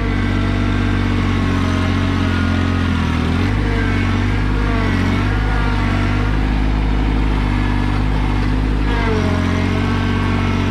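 Kubota BX2200 compact tractor's three-cylinder diesel engine running steadily while tilling. Its pitch sags briefly about three seconds in and again near the end, as the load comes on.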